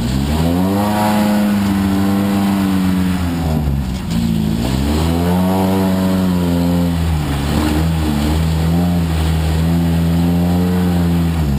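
Off-road 4x4's engine revving under load as it crawls up a rocky obstacle. The revs rise about a second in, drop near the four-second mark, climb again, then hold steady.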